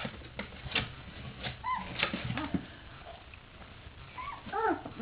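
Three-week-old Portuguese Water Dog puppies whimpering in short, arching squeaks, a couple about two seconds in and several in quick succession near the end, over light clicks and scuffling.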